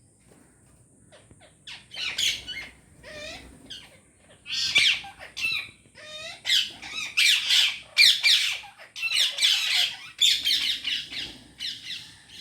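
Parrots squawking: harsh calls, a few at first, then many in quick succession and louder from about four seconds in.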